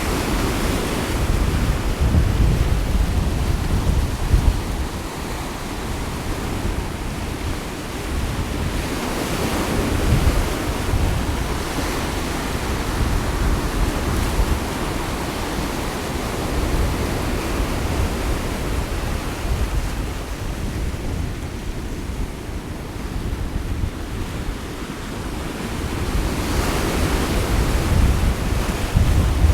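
Sea waves washing on the shore, swelling and ebbing every several seconds, with gusts of wind buffeting the microphone.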